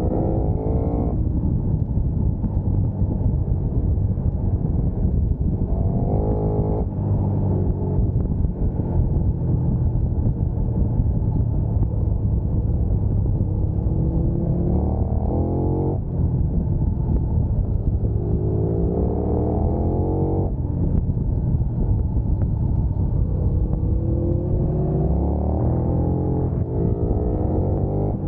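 Sport motorcycle engine pulling hard, its pitch climbing through the revs and dropping sharply at each upshift or throttle-off, about four times, over a steady heavy rush of wind and road noise.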